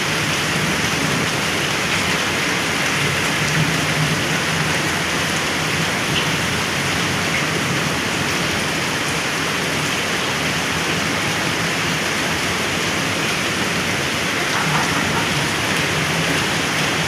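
Heavy rain falling steadily, a dense even hiss of rain pouring onto surfaces.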